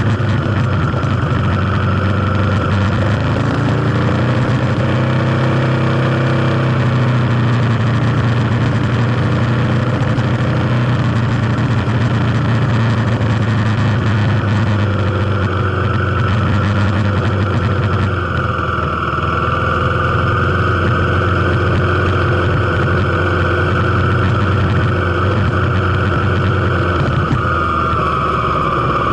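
Kawasaki KLX250's single-cylinder four-stroke engine running steadily as the bike is ridden, its note changing about two-thirds of the way through.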